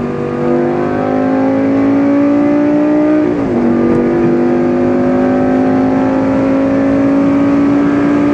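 Lamborghini Gallardo's V10 engine accelerating, its pitch climbing steadily, dropping sharply at an upshift a little over three seconds in, then climbing again in the next gear.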